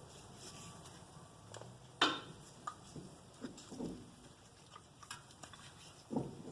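Scattered small clicks and light knocks of brake parts being handled while they are greased, the sharpest about two seconds in and another near the end.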